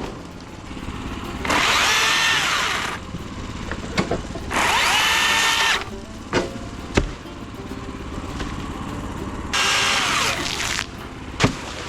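Milwaukee battery chainsaw cutting in three short bursts of about a second each, its pitch rising and falling within each cut. A few sharp knocks fall between the bursts.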